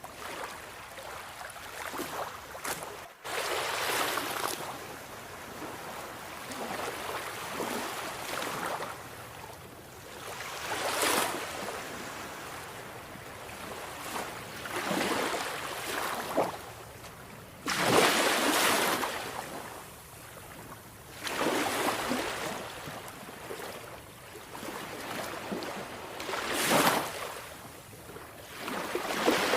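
Sea waves breaking and washing in, an irregular surge of surf every few seconds over a steady wash of water. The sound cuts out for an instant about three seconds in.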